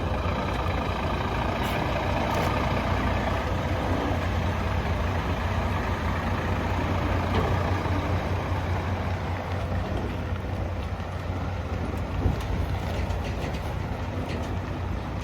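Scania G420 tipper truck's diesel engine idling steadily.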